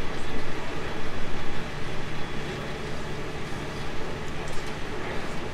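JR Central 313 series 2500-subseries electric train running along the track: steady rolling and running noise of the train in motion.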